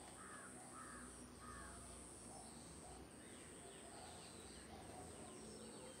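Faint bird calls outdoors: three short, harsh calls about half a second apart in the first second and a half, then a few fainter ones, over a steady faint high whine.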